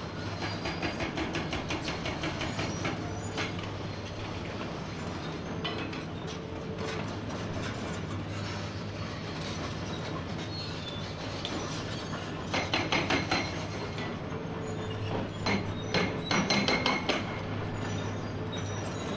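Hydraulic breaker on a Komatsu PC490 excavator hammering rock in bursts of rapid, evenly spaced blows, over the steady running of the excavator's diesel engine. The hammering comes in short runs, loudest about two-thirds of the way in and again shortly after.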